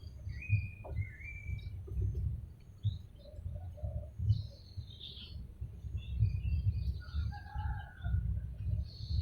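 Chickens chirping and calling, many short high chirps with a few lower calls, over a low, uneven rumble.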